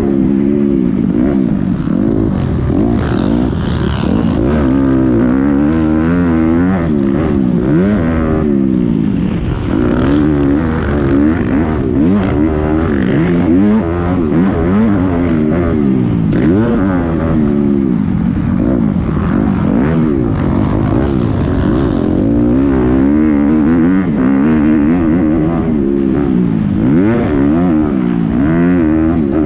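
Several motocross dirt bikes racing around the track, their engines revving up and falling back again and again as the riders shift and throttle through the turns and jumps.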